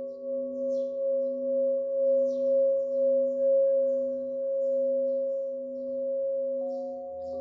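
Tibetan singing bowls ringing in several steady overlapping tones that waver and beat, with another bowl sounding in near the end. Small birds chirp briefly now and then over the ringing.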